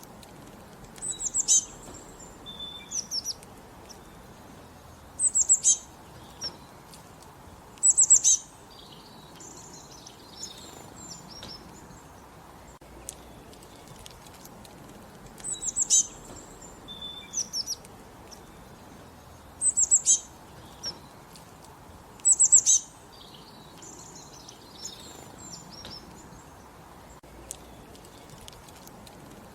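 Small songbirds singing: short, high-pitched chirping phrases, each about half a second long, coming every two to three seconds. A faint steady hiss lies beneath them.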